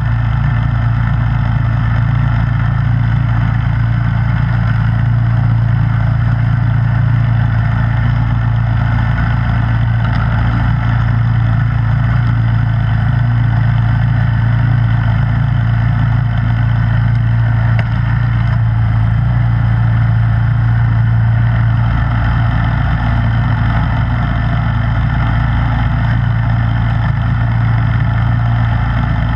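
Snowblower engine running at a steady, unchanging speed, with a deep, even hum.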